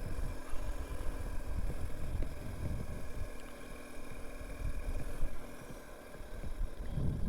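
BMW R 1250 GS's boxer-twin engine running during a slow feet-up U-turn, with a steady low rumble that eases off briefly and picks up again near the end.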